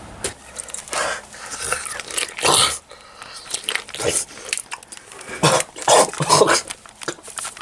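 Short, harsh bark-like calls coming irregularly, several in quick succession past the middle.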